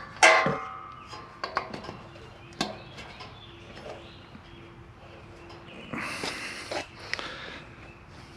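Scattered clicks and metallic clinks of tools and engine parts being handled, with one loud ringing clink just after the start.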